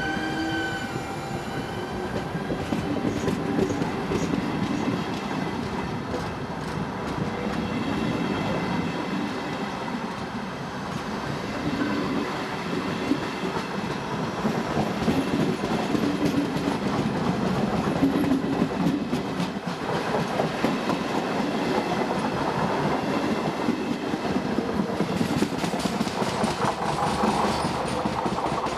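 Italian regional passenger train passing close by. The E.464 electric locomotive's steady whine fades in the first couple of seconds, then the coaches run past with a continuous rumble and a rhythmic clatter of wheels on the rails, with sharper clicking near the end.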